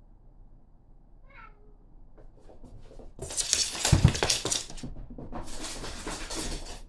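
A cat gives a short, faint meow with a falling pitch, then two loud scratchy, rustling bursts of about a second and a half each follow, the first the louder.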